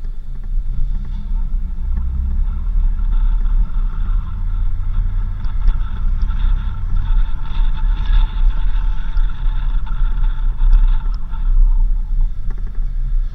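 A 4x4 vehicle driving on a dirt road, heard as a steady low rumble of engine and road noise.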